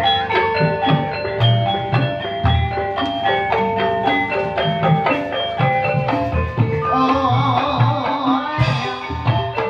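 Live gamelan music accompanying an ebeg dance: sharply struck metallophone notes over steady hand-drum beats, with a wavering melodic line coming in about seven seconds in.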